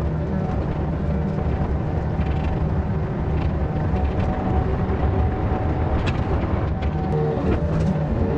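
Yanmar VIO50 mini excavator's diesel engine running under load while digging out a tree, its pitch shifting a little as the hydraulics work, with a few sharp knocks or cracks in the last few seconds.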